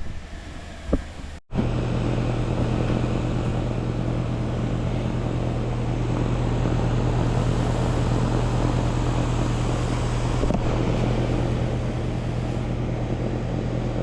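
Outdoor air-conditioner condensing unit running close up: a steady hum from the compressor under the rush of the condenser fan. A couple of light knocks come in the first second before the running sound sets in.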